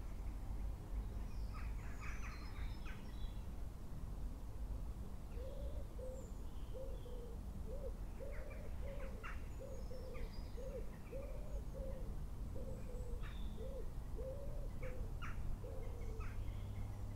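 Birds calling: scattered short high chirps, and from about five seconds in a run of short, low calls repeated about twice a second for some ten seconds, over a low steady rumble.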